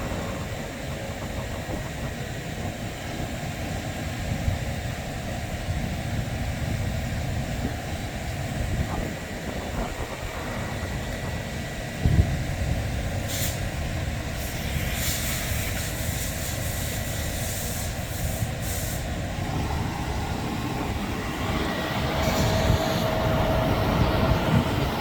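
Steady low machine rumble, as heard from inside a car in an automatic car wash tunnel, with a thump about twelve seconds in and several hissing bursts of spray or air just after it. A steady hum joins in near the end.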